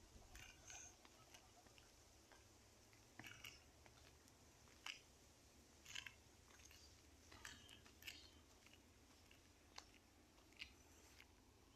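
Faint, irregular clicks and ticks, about a dozen spread unevenly, against near silence.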